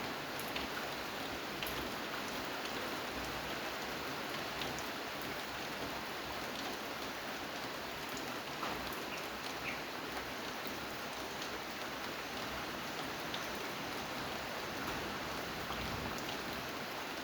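Steady rain falling, with the odd distinct drop ticking against a surface.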